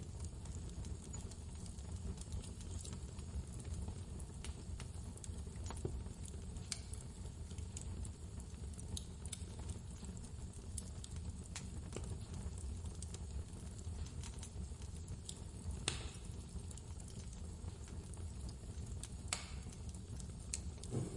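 Fireplace crackling, with scattered sharp pops, a few louder ones, over a steady low rumble of blizzard wind.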